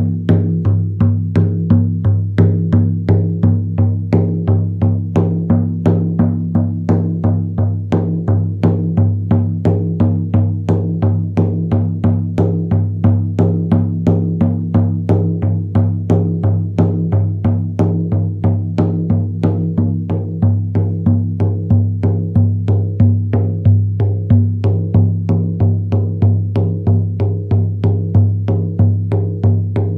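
Handmade goatskin frame drum struck with a soft leather beater in a steady, even beat of a few strokes a second. A deep tone rings on between the strokes.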